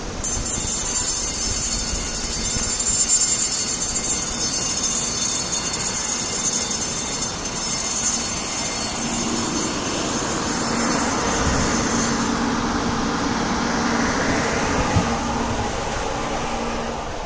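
High-speed bullet train moving along the platform track. A loud high-pitched hiss starts suddenly and cuts off about twelve seconds in, then a rushing rumble swells and fades near the end.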